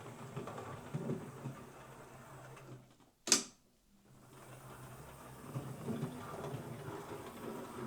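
Hornby A4 OO gauge model steam locomotive running on DC power, its small motor and drive giving a low hum with a fine rattle. About three seconds in it stops briefly, with one sharp click, then starts up and runs again. It runs now that a solder blob on the pickup has restored the bad contact between the pickups and the motor wire.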